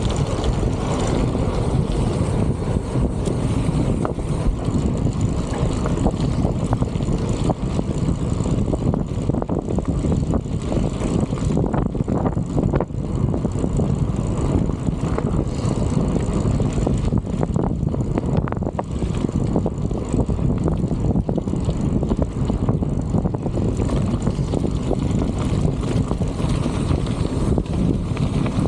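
Strong wind buffeting the microphone: a steady low rumble with irregular gusty flutter.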